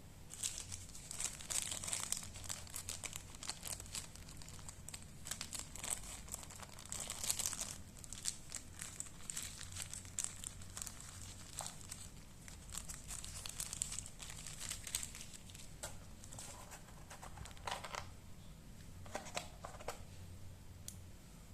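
Plastic packaging being crinkled and handled in irregular crackly rustles, typical of wrapping a phone mainboard for shipping.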